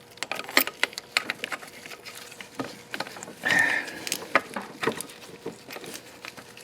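Hand tools and metal engine parts clinking and knocking irregularly, with a brief scrape about halfway through.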